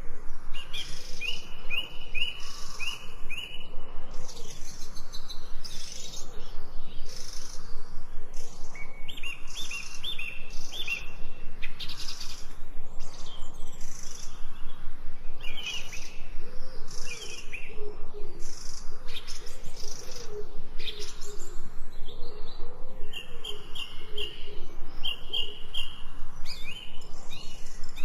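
Several birds singing: repeated short, quick runs of high notes, with a series of lower wavering calls joining in the second half.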